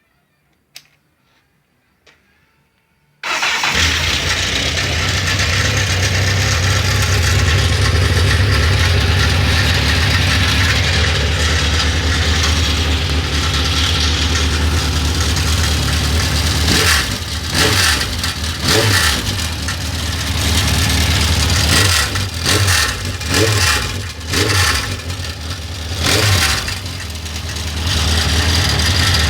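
Suzuki GSX-R 1100 inline-four motorcycle engine starting through a new aftermarket exhaust about three seconds in, after a couple of clicks, then idling, with a series of throttle blips in the later part before settling back to idle. The owner complains of a rattling noise that he puts down to a loose exhaust baffle.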